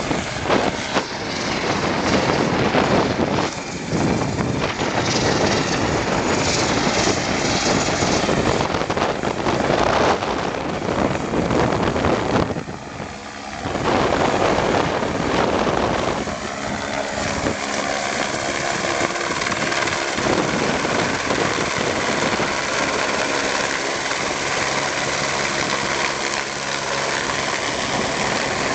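Aircraft flying by, its engine drone heard through heavy wind noise on the microphone. From about sixteen seconds in, the sound settles into a steadier hum with several clear, even tones.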